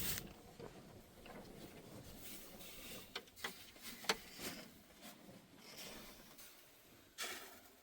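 Scattered light taps and clicks, a few sharp ones clustered about three to four seconds in, then a brief scrape near the end, as of things being handled and moved.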